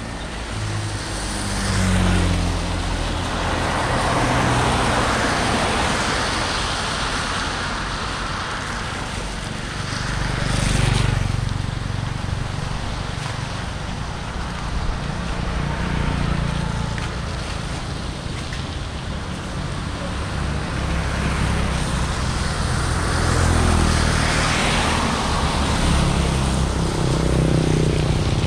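Road traffic: vehicles passing one after another, each a swell of engine rumble and tyre noise that rises and fades over a few seconds.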